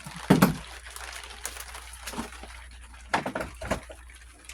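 A dull thump about a third of a second in, then scattered knocks and clinks of hand tools and metal parts, with a cluster of them near the end.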